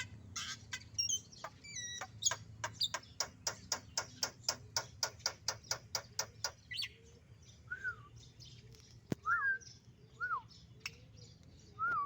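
Songbird calling: a rapid, even run of sharp chirps, about four a second, for the first half, then separate short rising-and-falling whistled notes spaced about a second apart.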